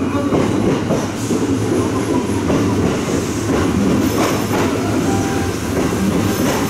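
Kintetsu electric train rolling slowly past close by, a steady rumble of wheels on rail with irregular clacks as the wheels cross rail joints.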